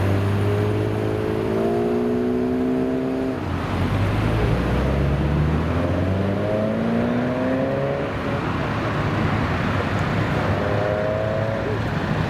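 Car engine accelerating, its pitch climbing three times and dropping back between climbs, over a steady low rumble of idling engines.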